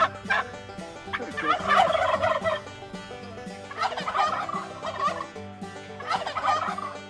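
Turkey gobbling: three rapid, warbling gobbles about a second long each, the first about a second and a half in.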